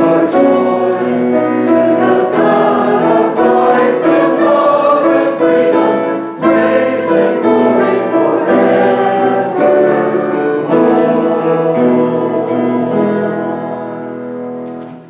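Church congregation singing a hymn with instrumental accompaniment, moving through held chords over a steady low note. The sound fades out on a final held chord near the end.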